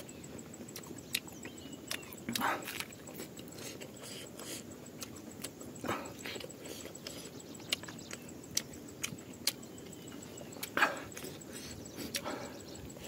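Eating sounds from a man eating rice by hand: chewing and lip-smacking, with many short mouth clicks and a few louder ones scattered through.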